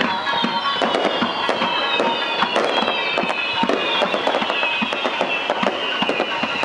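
Fireworks going off in quick succession: dense crackling and popping, over a cluster of high tones that slide slowly down in pitch.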